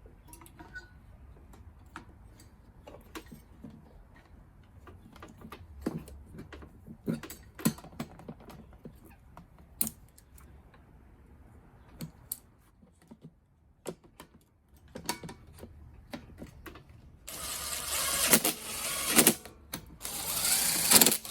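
Scattered clicks and light metal knocks of hand tools and small parts as a carburetor is refitted to a small engine. Near the end come two bursts of about two seconds each from a cordless power driver running down fasteners.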